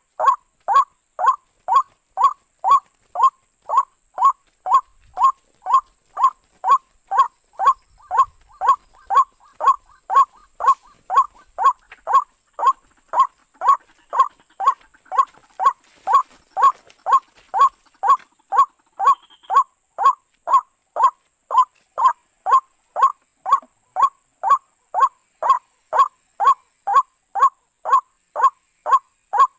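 White-breasted waterhen (ruak-ruak) calling: one short note repeated very evenly, about twice a second.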